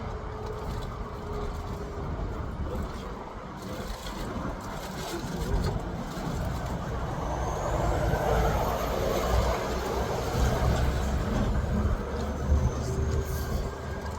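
Low rumble of a heavy vehicle's engine running, swelling for a few seconds around the middle, with a faint high whine rising and then falling.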